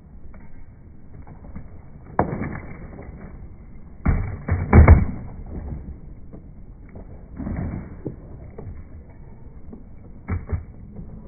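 Skateboard being popped in ollie attempts: the tail knocking on the ground and the board clattering back down, in separate bursts with the loudest cluster of knocks about four seconds in.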